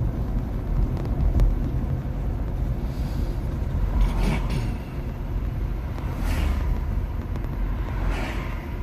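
Road and tyre noise of a 2021 Nissan Leaf electric car driving uphill, a steady low rumble with no engine sound, and three brief swells of hiss.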